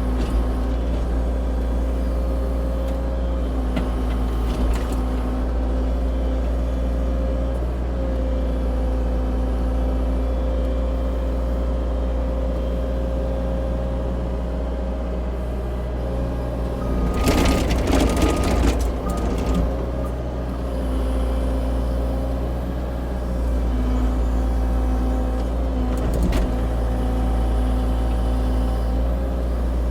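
A CAT 304 E2 mini excavator's diesel engine runs steadily under a thin, wavering whine. About 17 seconds in, a loud burst of crackling and scraping lasts two to three seconds as the bucket teeth rake up brush and debris. A couple of short knocks come earlier and near the end.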